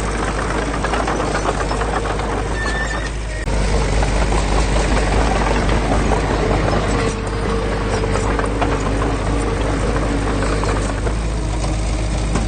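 Heavy diesel construction machine running steadily, with dense metallic clatter and a drawn-out squeal over the engine, typical of crawler tracks. The engine gets louder about three and a half seconds in.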